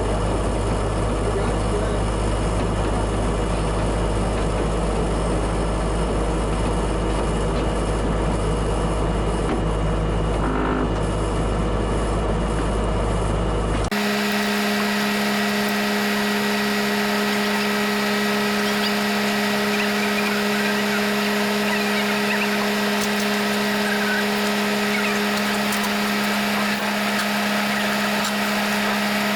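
A vehicle's engine and drivetrain running steadily on the move, a deep hum that switches abruptly about halfway through to a steadier, whinier drone with a thin high whine.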